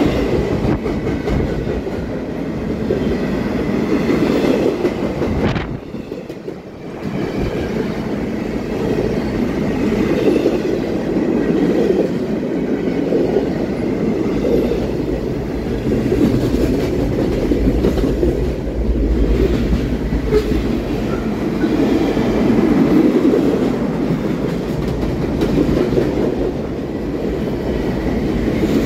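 Freight train passing close by: a steady rumble of steel wheels on the rails with a rhythmic clickety-clack, and a brief drop in loudness about six seconds in.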